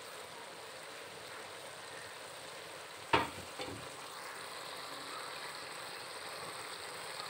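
Shredded jicama sizzling steadily in a wok, cooked down until its liquid is gone. About three seconds in there is a sharp knock, then a weaker one half a second later.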